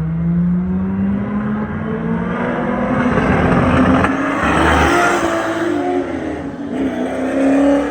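A high-performance car engine accelerating: its pitch climbs steadily for about three seconds, then rises and dips unevenly before the throttle comes off sharply at the end.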